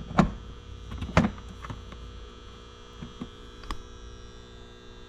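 A steady low electrical hum, with a few sharp clicks and knocks from parts being handled, the loudest about a second in.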